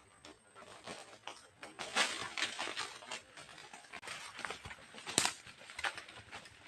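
A flock of green pigeons moving about in a fruiting tree: irregular rustling and clattering, with a few sharper, louder snaps about two and five seconds in.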